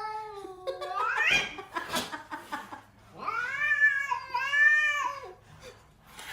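A domestic cat yowling in two long, drawn-out meows. The first rises in pitch at its end, about a second in. The second starts about three seconds in and lasts some two seconds.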